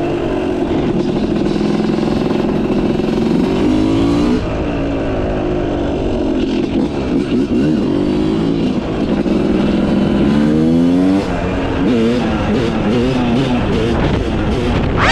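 Yamaha YZ250's single-cylinder two-stroke engine with a Pro Circuit exhaust, ridden hard: the revs climb in pitch again and again as it pulls, with the throttle chopped about four seconds in and again about eleven seconds in, then the revs wavering up and down. A brief sharp rising sound comes right at the end.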